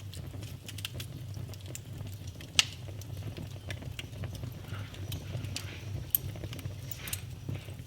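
Wood fire crackling in a fireplace: scattered small snaps and two louder pops, one a little after two seconds in and one about six seconds in, over a steady low rumble.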